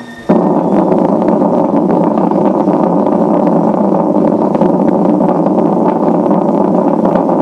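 Earthquake sound effect: a loud, steady rumble that starts abruptly about a third of a second in, with dense crackling and rattling over it.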